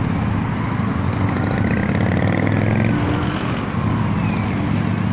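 Road traffic with engines running close by, and a siren wailing in the background, its pitch slowly rising and then falling.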